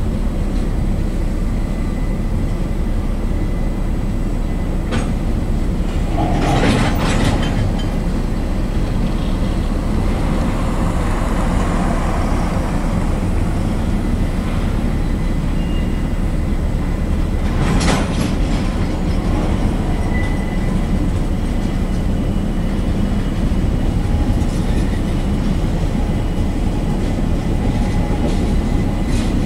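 Freight train's tank cars rolling past at close range, a steady noise of steel wheels on rail. Two louder bangs stand out, about seven and eighteen seconds in.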